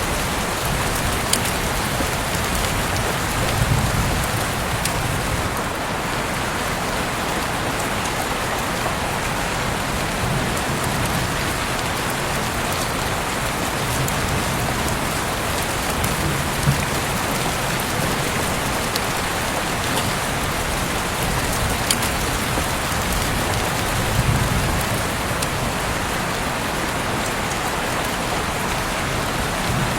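Heavy rain falling steadily, an even wash of noise with single drops now and then ticking sharply, and a few soft low rumbles swelling and fading.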